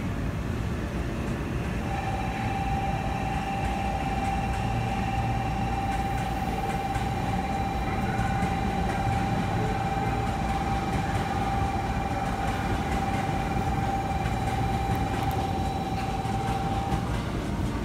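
Hankyu electric trains at a station platform: a steady low rumble, joined about two seconds in by a single steady high-pitched tone that holds for about fifteen seconds and stops near the end.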